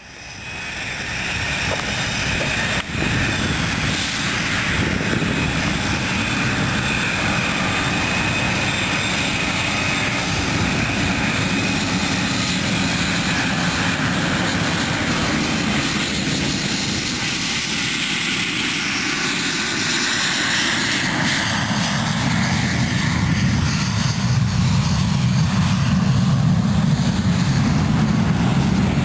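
Aircraft engines running loud and continuous as display aircraft depart, with whining tones that slowly rise and fall over the engine noise.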